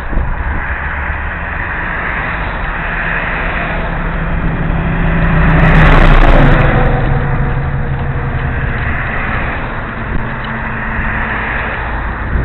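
A motor vehicle passes the cyclists, swelling to its loudest about halfway through, its engine pitch dropping as it goes by. Steady wind rushes over the helmet-mounted microphone throughout.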